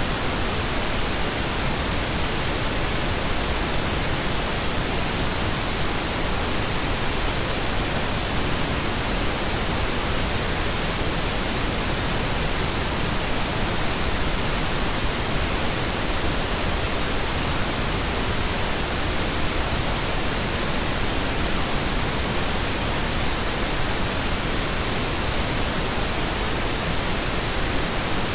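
Pink noise: a steady, unchanging hiss spread evenly across the whole range, played as a sleep aid.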